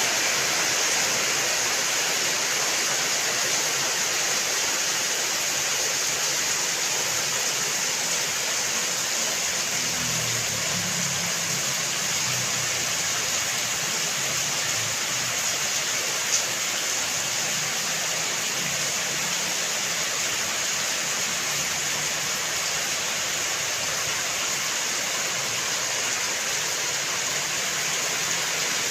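Steady rain, an unbroken hiss of falling water, with a single sharp click about sixteen seconds in.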